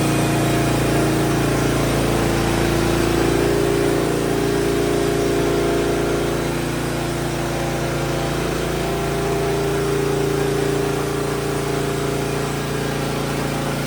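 Sawmill engine running steadily while it warms up before the first cut.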